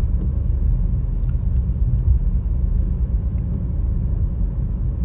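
Steady low rumble of a car driving on a wet road, heard from inside the cabin: engine and tyre noise, with a few faint ticks.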